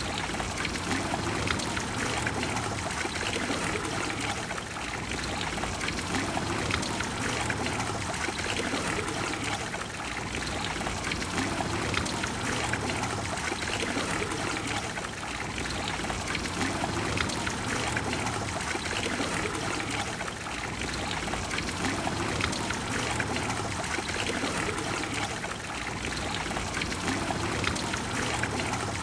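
Water falling and splashing in the Trevi Fountain: a steady rush of water.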